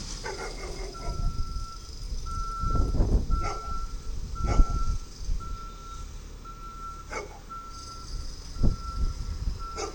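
Side-loader garbage truck's backup alarm beeping evenly, a little more than once a second, starting about a second in, over the low running of the truck's engine. Several sharp knocks sound in between.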